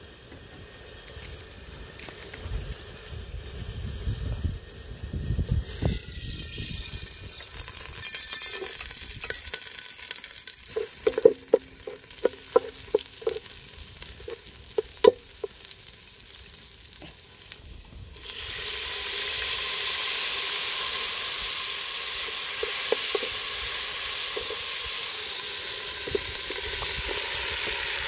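Oil and chopped garlic sizzling in an aluminium pot over a wood fire, stirred with a wooden spoon that knocks sharply against the pot several times near the middle. About two-thirds of the way through the sizzle jumps suddenly much louder and stays loud as raw pork pieces go into the hot oil.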